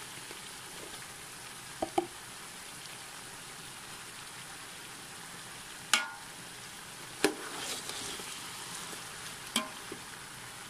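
Chicken pieces and tomatoes sizzling steadily in oil in a steel pot as grated onion paste is added. A slotted metal spoon clinks sharply against the pot a few times.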